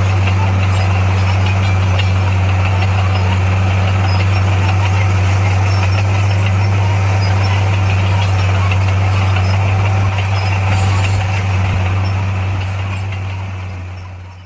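Bulldozer's diesel engine running steadily with a deep, constant drone, fading out near the end.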